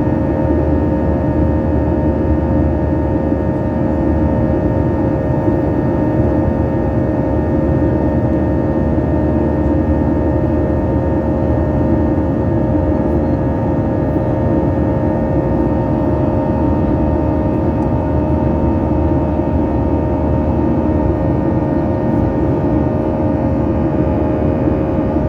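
Boeing 737-800's CFM56-7B jet engines heard from inside the cabin in flight: a steady rumble with a constant engine hum on top, unchanging throughout.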